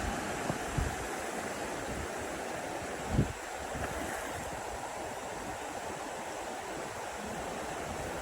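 River water rushing steadily around the crossing, with one brief thump about three seconds in.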